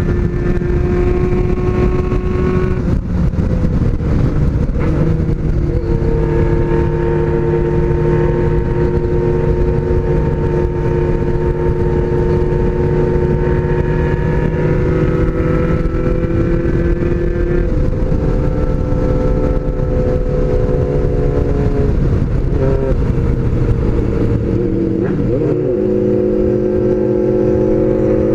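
Honda CBX 750F inline-four motorcycle engine running under way at steady cruising revs. Its note steps between steady pitches several times, with a drop and a pick-up again a little before the end.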